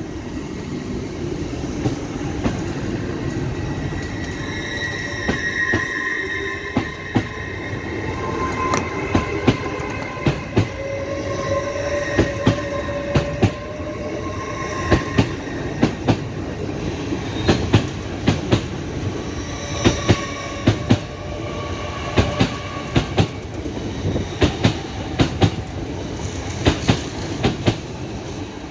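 LNER Azuma passenger train passing close by: a steady rumble of its wheels on the track, with many sharp clicks, often in close pairs, as the wheelsets run over rail joints and pointwork. High steady whining tones come and go over the rumble.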